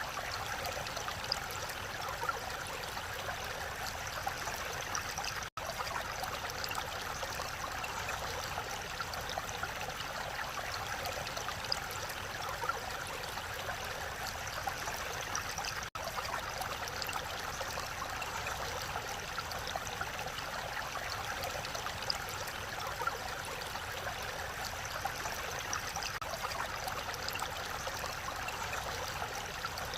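Mountain stream rushing steadily over rocks, an even babble of flowing water. The sound cuts out for an instant twice, about five seconds in and again about sixteen seconds in.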